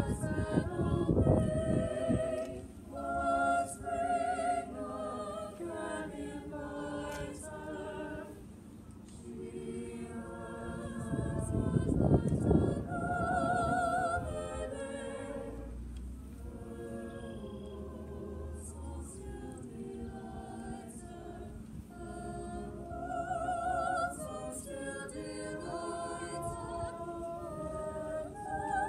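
A choir singing a cappella, held notes with vibrato. A low rumble cuts in twice, near the start and about halfway through.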